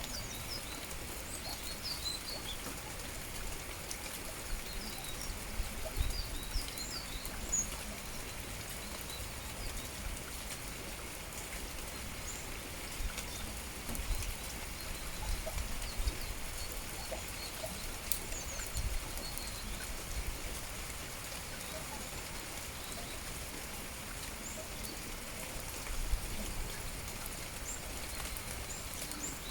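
Steady rain falling, with small birds chirping in short, high calls, busiest in the first several seconds and sparse after. Occasional soft low thumps.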